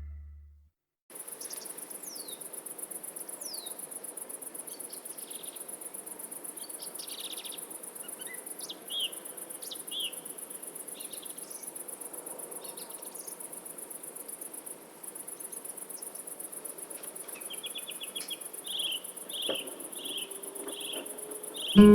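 Crickets chirring steadily, high-pitched and rapidly pulsing, with birds calling over them: a few quick falling whistles early on, then a run of about seven evenly spaced chirps near the end.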